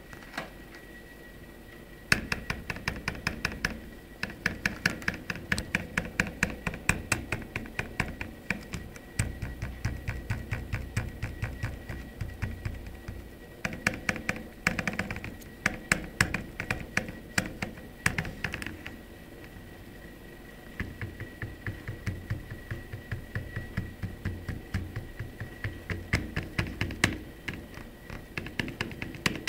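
Nokia N85 slide phone rattling as it is shaken: rapid clicking of its loose slider mechanism, about six clicks a second, in two long runs with a short pause about two-thirds of the way through. The rattle is the sign of play in the slider.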